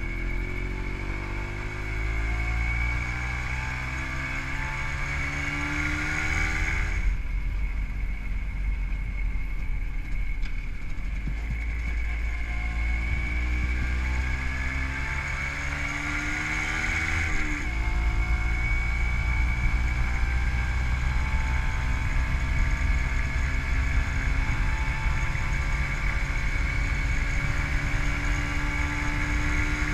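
Single-cylinder two-stroke engine of a WSK 125 motorcycle with a Dell'Orto PHBG carburettor, pulling under way with its pitch climbing steadily. About seven seconds in, the engine note drops away and a low wind rush dominates for about ten seconds; then the engine picks up and climbs again.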